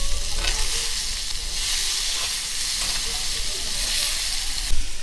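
Food sizzling in a pan set over a wood fire: a steady hiss with a few faint cracks.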